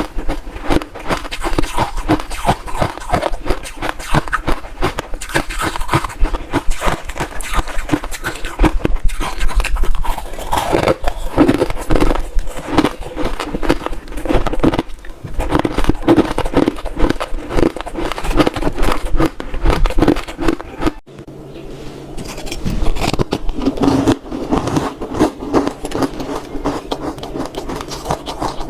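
Close-miked crunching of ice being bitten and chewed, a rapid, irregular run of crisp cracks and crunches, with a brief lull about two-thirds of the way through before the chewing resumes.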